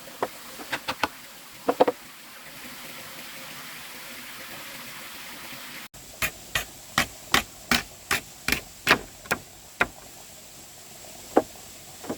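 Series of sharp hand-tool strikes, such as a hammer or blade hitting wood, in short clusters at first, then in a steady run of about two to three blows a second, with a lone strike near the end.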